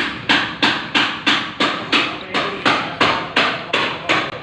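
Repeated hammer blows in a steady rhythm, about three a second.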